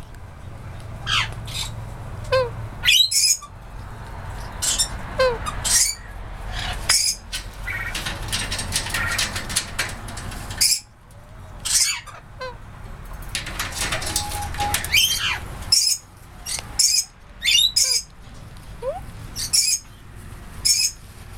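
Aviary birds calling: many short, high-pitched chirps and squawks repeating throughout, some sliding in pitch, with stretches of rustling noise near the middle.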